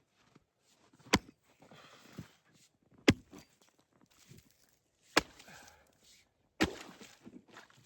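Four hard chopping strikes into lake ice, about two seconds apart, with lighter crunching between: a hole being cut to check how thick the new ice is.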